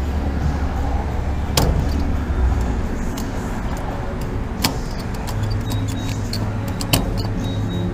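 Steady low vehicle rumble broken by three sharp clicks spread across the stretch, with a low hum settling in after about five seconds.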